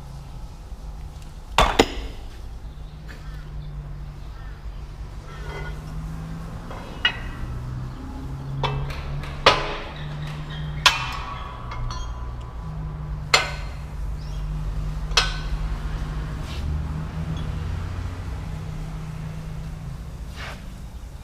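Metal tools clinking and knocking on metal in scattered sharp strikes, some ringing briefly, over a steady low hum.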